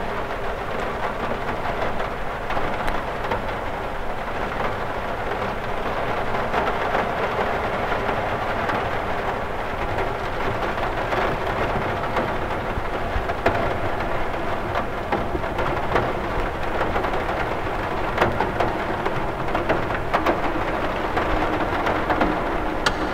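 Rain falling steadily on a window: a continuous even hiss of rain with many small, sharp drop taps scattered through it.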